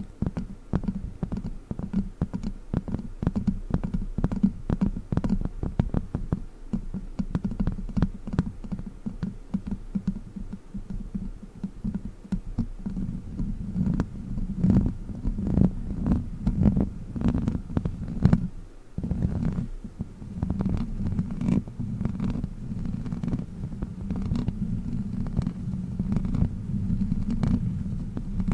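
Witch finger toy worked right against the microphone, making many quick soft taps and clicks over a heavy low rumble, with one short pause a little after the middle.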